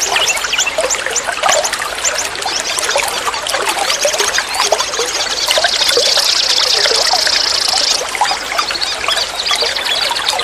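Water trickling and gurgling steadily, a dense patter of small splashes and bubbling. A steady high-pitched trill runs over it for a few seconds in the middle, then stops suddenly.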